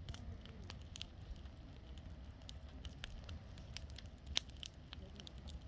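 Bonfire burning with irregular crackles and sharp pops from the burning wood, one louder pop a little past the middle, over a steady low rumble.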